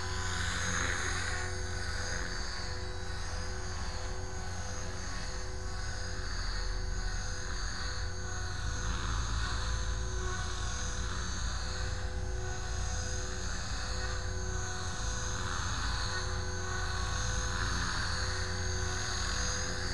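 450-size electric RC helicopter in flight: a steady whine from its motor and rotor blades that holds an even pitch.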